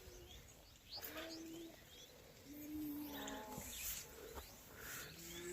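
Doves cooing in low, held notes about a second long, three times, with small birds chirping briefly in between.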